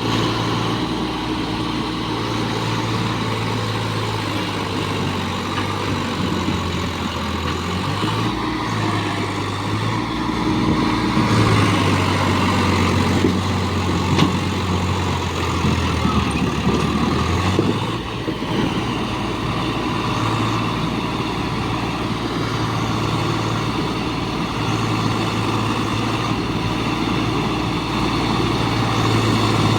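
Swaraj 744 tractor's three-cylinder diesel engine running continuously, its note shifting in pitch several times as engine speed changes, a little louder from about 11 seconds in.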